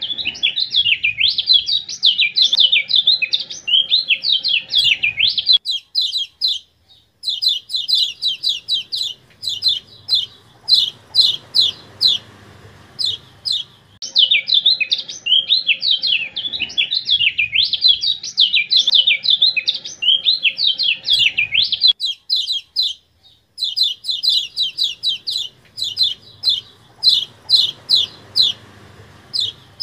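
Kecial kuning song: a fast, high twittering warble for about five seconds, then a run of quick, sharp "ciak" chips, the whole phrase repeating about halfway through as a looped training recording.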